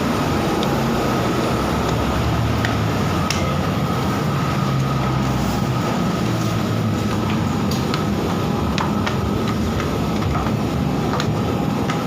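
Steady mechanical rumble with shifting low hums, a constant whine and a few light clicks, like the inside of a moving vehicle.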